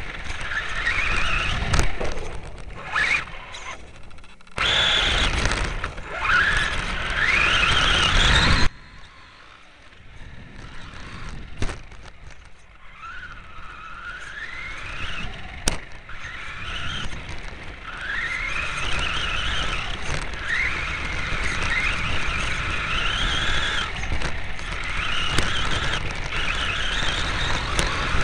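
Radio-controlled Losi Desert Truck's motor whining as it accelerates again and again, each burst of throttle a rising whine, over a loud rumble of tyres and wind. The rumble cuts off suddenly about nine seconds in, and the rising whines carry on through the rest.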